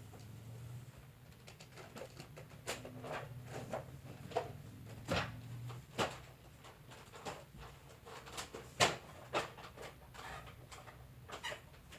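Irregular clicks and knocks of objects being handled and set down, over a steady low hum.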